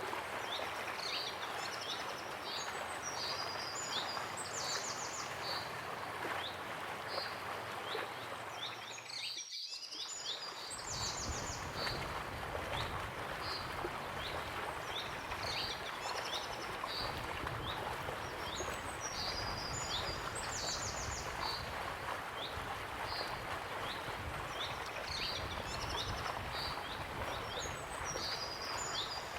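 Waterfall rushing steadily, with small birds chirping and trilling in short repeated phrases over it. The water sound dips out briefly about ten seconds in, then carries on with a little more low rumble.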